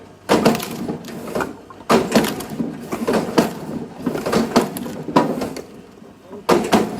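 Firewood being split or chopped by hand: a series of sharp wooden knocks and cracks at irregular intervals, several of them loud.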